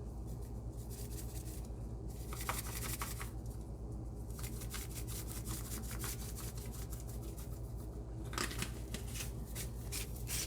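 A seasoning shaker shaken over ground beef, giving two spells of quick rattling taps a few seconds apart, over a steady low hum.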